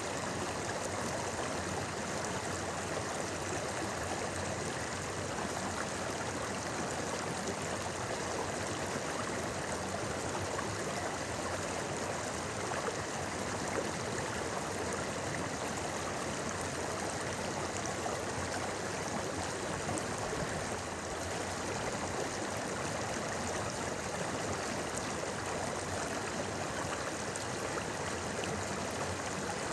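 A clear mountain stream flowing and babbling over rocks, a steady, even rush of water.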